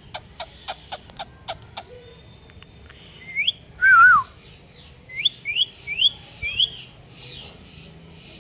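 Pet parrot clicking and whistling. It starts with a quick run of about eight sharp clicks. Then comes a rising whistle, a louder wavering whistle that falls in pitch, and five short rising whistles in quick succession.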